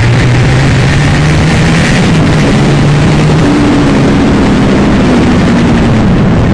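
Aprilia Tuono motorcycle engine running hard, its pitch climbing to a peak a few seconds in and then dropping away, over a loud, steady rush of noise.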